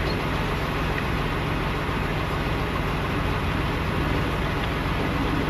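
A truck's diesel engine idling steadily, a constant low rumble with hiss.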